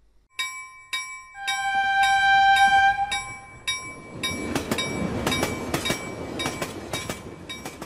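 Train horn sounding for about three seconds, a lower, louder note joining about a second and a half in, followed by a train rolling past with a rumble and irregular clacking of wheels over rail joints.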